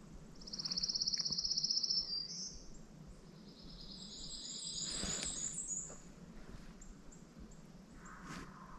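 Small songbirds singing in the woods: a rapid, high trill for about a second and a half, then a higher, twittering song from a second bird a few seconds later.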